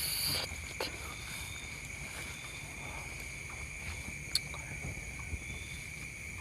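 Steady high-pitched chirring of insects, likely crickets, with a low rumble underneath and a few faint clicks.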